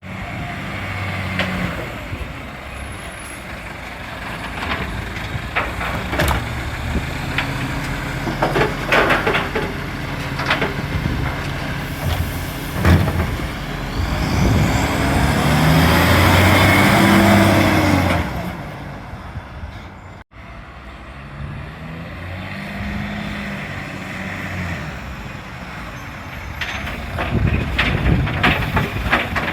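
Recycling garbage truck's diesel engine running with an exhaust leak, revving up and back down about halfway through with a loud rushing hiss, then settling back to a steady run.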